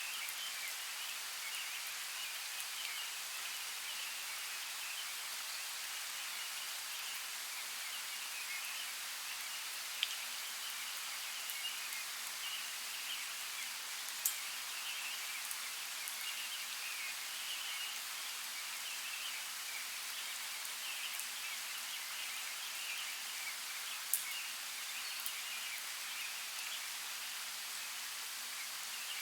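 Steady rain falling, an even high hiss with a grainy patter, and a few sharp drop ticks, three of them standing out.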